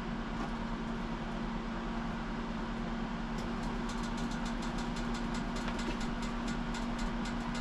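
A steady mechanical hum, like a motor or fan running. From about three seconds in, light ticking joins it at about five ticks a second.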